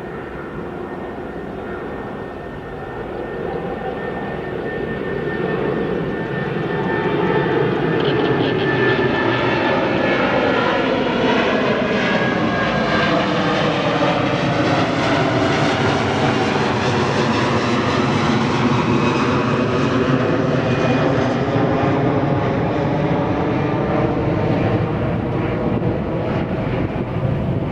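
Jet airliner passing close by a runway: its engine noise swells over the first seven seconds and then stays loud, with a faint high whine that sinks slightly in pitch.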